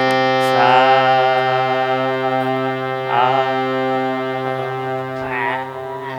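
A harmonium holds a steady drone while a voice sings long held notes of a sargam exercise over it. The voice comes in three times, each entry wavering before it settles.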